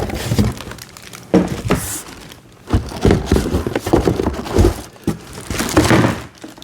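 Packaging crinkling and rustling as parts of a kids' ride-on motorcycle are unpacked by hand, with irregular knocks and thunks as pieces are handled and set down.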